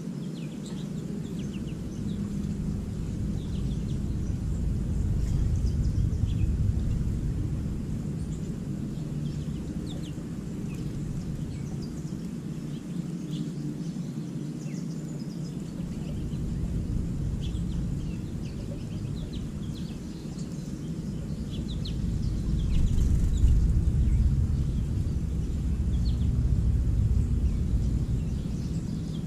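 Many short, high chirps from small songbirds scattered throughout, over a louder low rumble that swells and fades, loudest about a quarter of the way in and again near the end.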